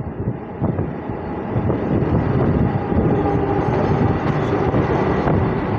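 MMTS electric local train running, its wheels on the rails and the rush of air loud at an open doorway, getting louder over the first couple of seconds as it pulls out of the station.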